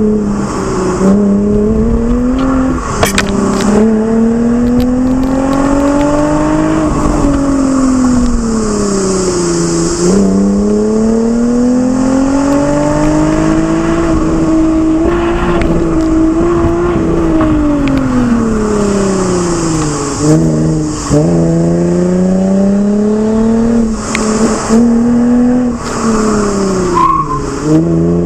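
Lexus IS engine breathing through an aftermarket Fi exhaust under hard driving. Its note climbs steadily with the revs and drops sharply at each gear change, about four times: near the start, about 10 s in, around 20 to 21 s, and near the end.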